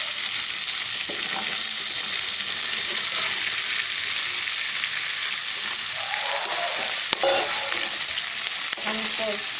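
Oil sizzling steadily in a nonstick wok while a fried tomato-and-onion masala and then chopped raw vegetables are stirred with a wooden spatula. A couple of sharp clicks of the spatula against the pan come near the end.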